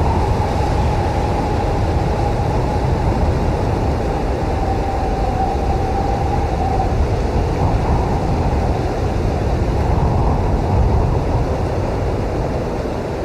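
Blizzard wind blowing hard and steadily with a deep rumble and a faint whistle that fades out about halfway through.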